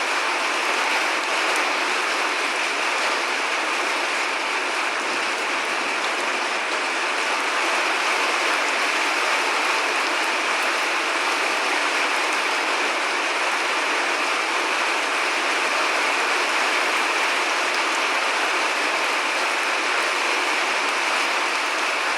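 Steady rain, a continuous even hiss of falling rain with no thunder.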